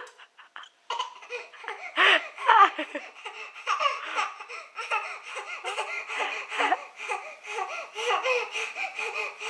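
Baby laughing, a long run of quick, breathy bursts that starts about a second in and goes on without a break.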